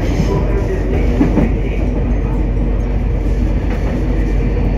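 Train running on the rails: a steady rumble with a few faint clicks from the wheels.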